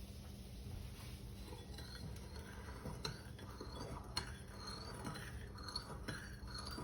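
Faint kitchen handling sounds: a few light clicks and taps of utensils and dishes while a sauce is being put together.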